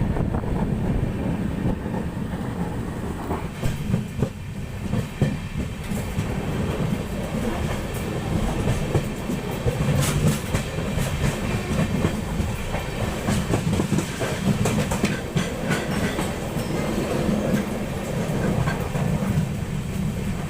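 Netravati Express passenger train running along the track: a steady rumble with wheels clattering over rail joints.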